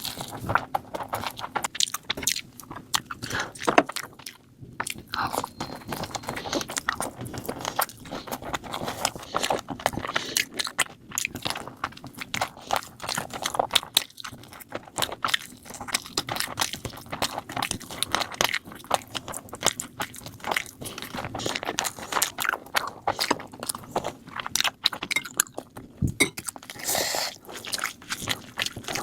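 Close-miked eating of chicken curry with rice: steady chewing and biting, a dense irregular run of small clicks and smacks.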